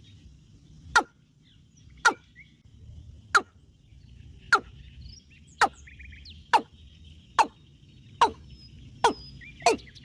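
An animal giving sharp chirps that fall steeply in pitch, about ten of them, roughly one a second and coming faster near the end, over a faint background chorus of small calls.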